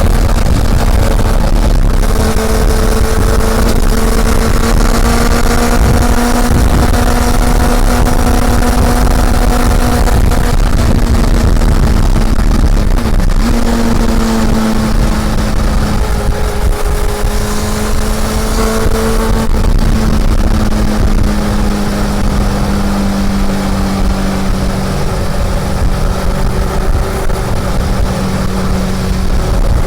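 Honda CB400 Super Four's inline-four engine running under way at steady revs, with heavy wind rumble on the microphone. The engine note breaks briefly about halfway through, then settles, and the revs ease slowly down near the end.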